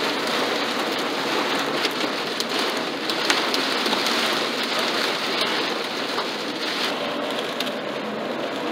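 Heavy rain beating on a car's roof and windshield, heard from inside the car: a steady wash dotted with sharp ticks of individual drops striking.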